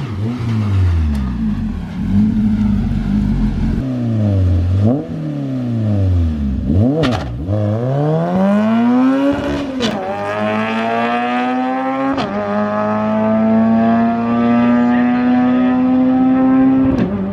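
Honda-swapped pro truck's four-cylinder engine at full throttle on a drag run, revving up through the gears with the pitch breaking sharply at each shift. It then holds one long pull with the revs climbing steadily in the last gear.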